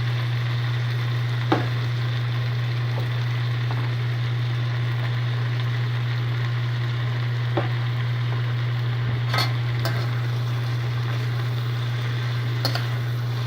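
Chicken breast and mushrooms sizzling as they stir-fry in basil butter in a pan, with about four sharp clicks spread through and a steady low hum underneath.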